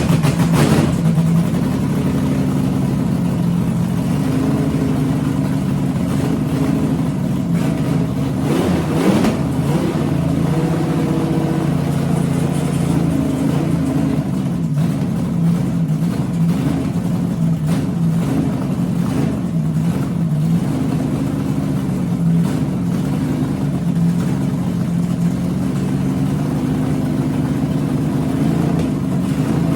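Chevrolet 350 small-block V8 with 6-inch rods running on its first start, at an uneven fast idle whose speed wavers; it is louder in the first second and gives a short rev about nine seconds in. The engine has a couple of vacuum leaks and doesn't like to idle.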